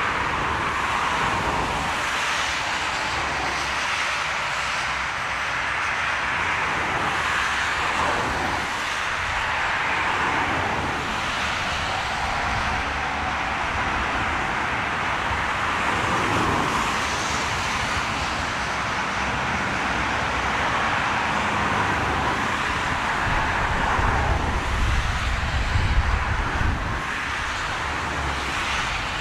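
Steady roar of an airliner's jet engines on a landing approach, with strong gusts of wind buffeting the microphone and rumbling loudest a little before the end.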